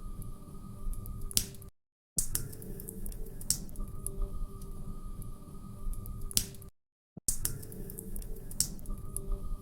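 Log fire crackling, with scattered sharp pops and snaps. The sound drops out to dead silence twice, briefly, about two seconds in and again about seven seconds in.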